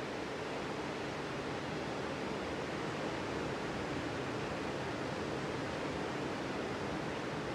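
Sea surf on a beach: a steady, continuous rush of breaking waves with no single wave standing out.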